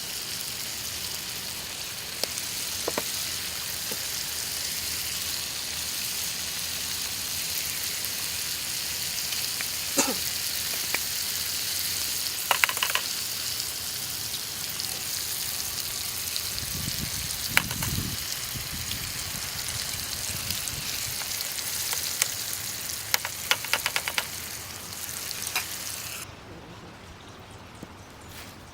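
Food sizzling and frying in a pan, a steady hiss with scattered small pops and clicks. It stops abruptly near the end.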